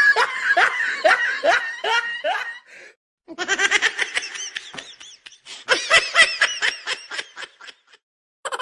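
Laughter sound effect: a person laughing in runs of short 'ha-ha' pulses, three bursts with brief pauses between them, the later bursts higher-pitched and giggly.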